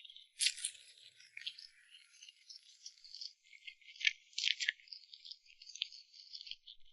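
Close-up crisp crackling and clicking of eating crunchy food, irregular small snaps with a few sharper ones near the start and around four to five seconds in.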